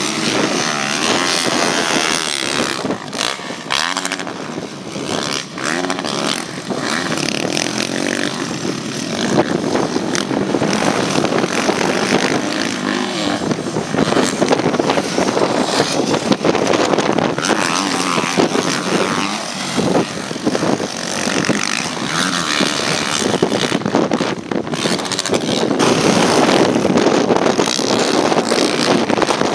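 Open-class motocross bikes racing, their engines revving up and falling back again and again as the riders accelerate and shift around the track.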